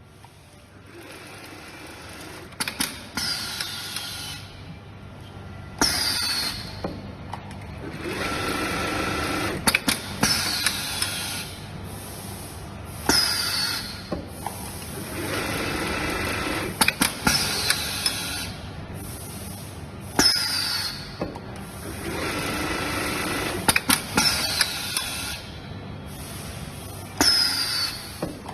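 Semi-automatic pattern sewing machine stitching a decorative seam through a thick seat cushion in repeated cycles, about every seven seconds. Each cycle has sharp clicks, a falling whine, and a stretch of steady stitching.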